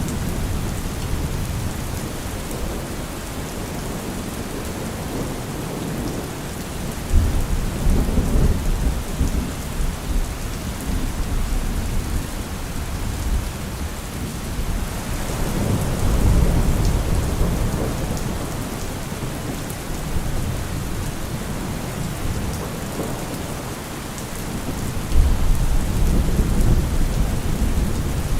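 Steady heavy rain with thunder: three low rumbling rolls, the first starting suddenly about a quarter of the way in, the second building around the middle and the third starting suddenly near the end.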